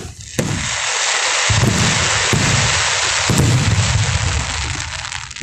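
Fireworks display: several booms from aerial shells, about a second apart, over a dense crackling that starts suddenly about half a second in and fades near the end.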